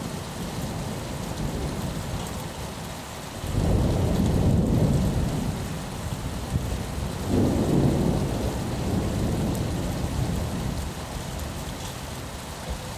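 Steady rain pattering on a window, with a long roll of thunder. The rumble swells sharply about three and a half seconds in, surges again near eight seconds, then dies away.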